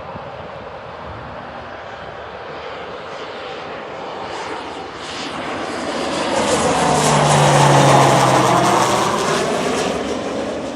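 Jet aircraft flying low past, its engine noise swelling to loudest about eight seconds in and then fading, with a high turbine whine that slowly drops in pitch as it goes by.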